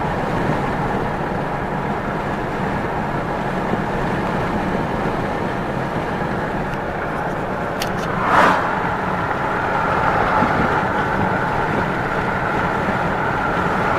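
Steady road and engine noise of a car being driven, heard from inside the cabin, with a brief louder swell a little past halfway.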